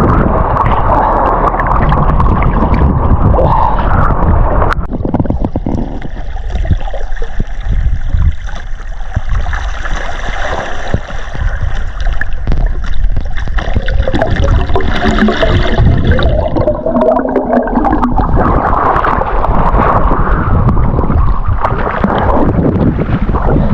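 Seawater gurgling and sloshing loudly close to the microphone, changing in character for a stretch in the middle.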